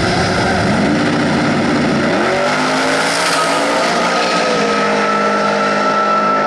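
Two street drag cars launching and accelerating hard. The engine pitch climbs and drops back at gear changes, about a second and two seconds in, then settles into a steady note as the cars run down the track.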